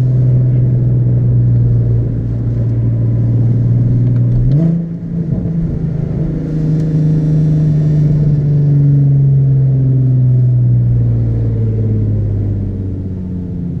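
Nissan 370Z's 3.7-litre V6 running under way, a steady engine note that jumps up in pitch about four and a half seconds in, then slowly falls as the car eases off.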